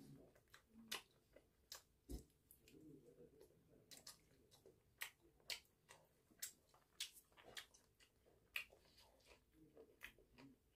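Close-miked chewing of grilled chicken, with many sharp, irregular wet mouth clicks and smacks.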